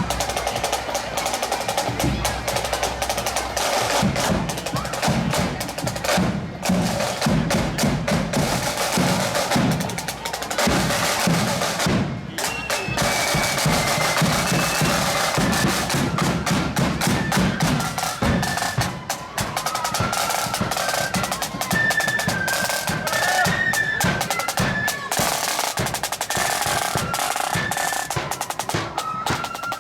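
Marching band drum corps playing in the street: snare drum rolls over bass drum beats. High melody notes come in over the drumming from about halfway through.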